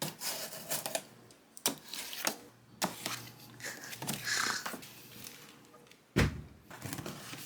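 A run of sharp clicks and knocks from objects being handled, with a heavier thump about six seconds in.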